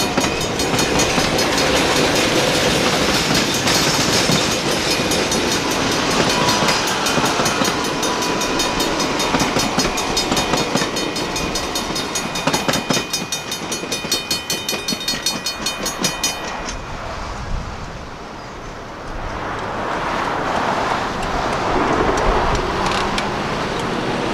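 Train passing through a grade crossing while the crossing signal's bell rings rapidly over the rumble and clatter of the wheels. About two-thirds of the way in, the bell stops abruptly and a rushing noise carries on.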